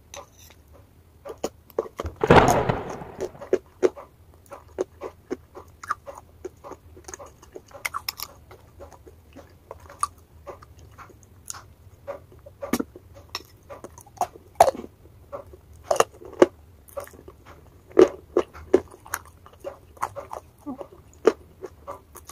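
Mouth sounds of someone eating a soft, whipped wet-chalk paste off a spoon: a steady run of short sticky smacks and clicks, with one louder, longer burst about two seconds in.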